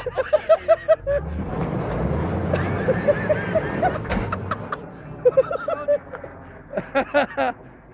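A Jeep's engine revs hard for about three seconds as it rams the prop, then drops away. People laugh at the start and again near the end.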